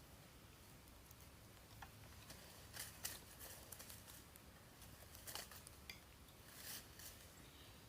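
Near silence with a few faint, brief scratchy sounds, spread a second or two apart.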